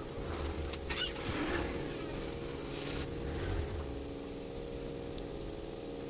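A steady machine-like hum, with a few short sharp clicks: one at the start, one about a second in, and one about three seconds in.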